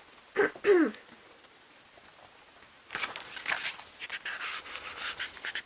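Pages of an album photobook being turned and handled: a crisp rustling of paper with quick clicks and crackles over the last few seconds. Near the start there is a brief vocal sound with a falling pitch.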